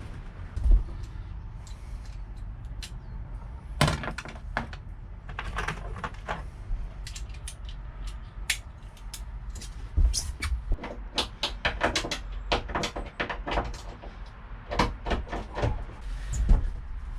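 Irregular clicks, knocks and scrapes of hand tools working old screws out of a boat seat's mounting, over a steady low rumble.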